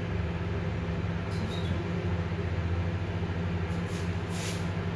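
Microwave oven running with its turntable turning: a steady low hum. Two faint, brief hissy sounds come through, about a second and a half in and again near four seconds.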